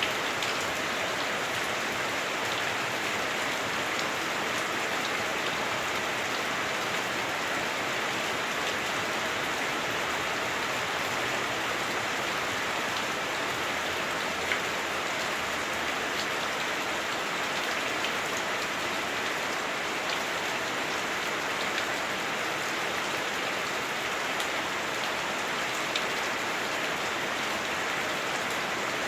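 Heavy rain drumming on a house roof, heard from inside: a steady, dense patter with small individual drops ticking through it, one a little louder about halfway through.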